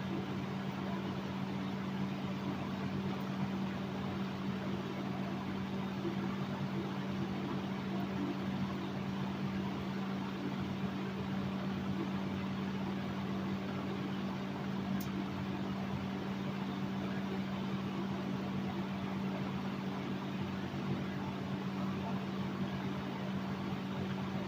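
1968 Kenmore (Vernco) 20-inch box fan running steadily, a low motor hum under the rush of air from the blades. It runs smoothly: the motor is healthy and the blades are in balance.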